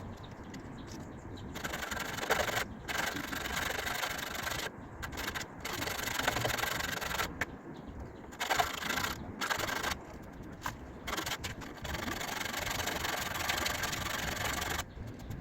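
Sanding of a car body panel, taking old filler and paint down around a dent. It is a coarse rasping that runs in stretches of a second or two, broken by short pauses, beginning a moment in.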